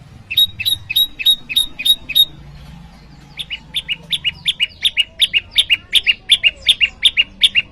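Prenjak lumut songbird calling in rapid runs of sharp two-part chirps, about four a second. A short run of about seven chirps, a pause of about a second, then a longer run that keeps going. It is a call said to challenge and draw rival birds.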